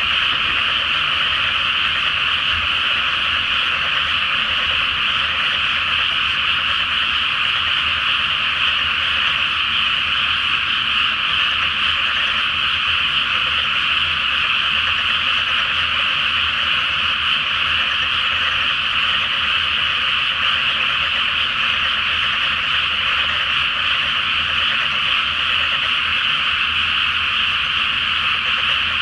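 Chorus of many frogs calling together in a flooded rice paddy before planting, their calls blending into one dense, steady din with no break.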